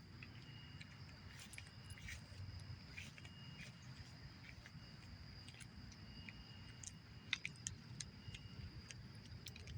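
Faint insects trilling steadily: one high continuous tone, with a second, lower trill that starts and stops in stretches of a second or two. Scattered light clicks over a low background rumble.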